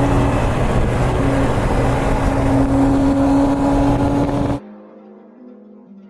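Car driving at a steady speed: a steady engine drone over road noise, with no revving. It cuts off suddenly about four and a half seconds in, giving way to quiet music.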